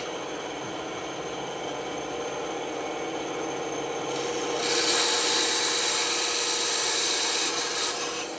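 Band saw running with a steady hum. About halfway through, its blade cuts into wood with a loud, high hiss that lasts a few seconds and eases off near the end.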